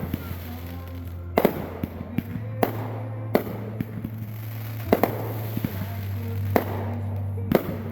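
Fireworks going off: about six sharp bangs at irregular intervals, over background music with low held notes.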